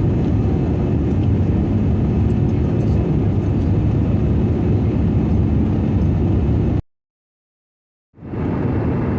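Steady rumble of an Airbus A320-200 heard inside the cabin: engine and airflow noise. It cuts off abruptly about seven seconds in, stays silent for just over a second, then fades back in.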